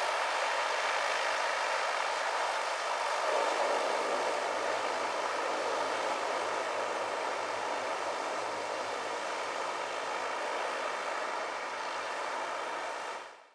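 Firefighting aircraft running steadily, with a dense engine noise over a whine of fine steady tones, fading out quickly just before the end.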